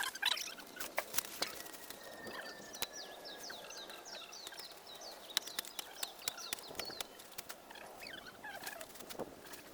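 Bird singing outdoors: rapid series of short, high, descending notes, with sharp clicks and knocks scattered throughout.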